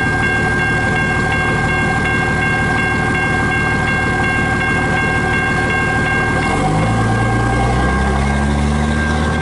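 The tail end of a freight train rumbles past a grade crossing while the crossing warning bell rings steadily. About six and a half seconds in, a vehicle engine starts revving up in steps as crossing traffic moves off.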